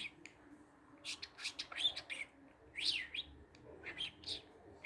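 Budgerigar chirping and warbling in a rapid, irregular run of short, high chirps and quick up-and-down sweeps.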